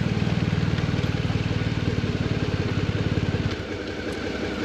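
Motorcycle engine running with a steady, fast low throb that drops away sharply about three and a half seconds in, leaving a quieter engine sound.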